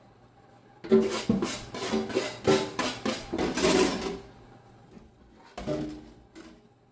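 Kitchen clatter: a quick run of knocks and scrapes from cookware or utensils for about three seconds, then a few more knocks near the end.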